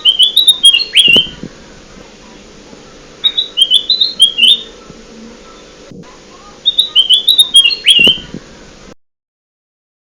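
Kutilang emas, a bulbul, singing a short phrase of quick whistled notes three times, about three seconds apart, over a faint steady background hum. The sound cuts off suddenly near the end, as a looped lure-call recording would.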